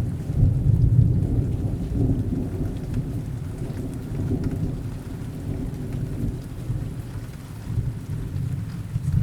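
Steady rain with a low, rolling rumble of thunder that is loudest in the first two seconds and slowly fades.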